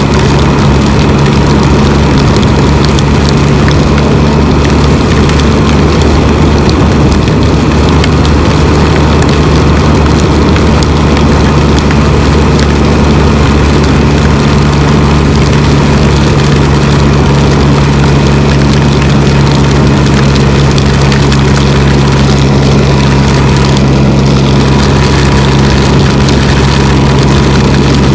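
Can-Am Spyder three-wheeled motorcycle's engine droning steadily at cruising speed, under a constant rush of wind and road noise on the rider's microphone.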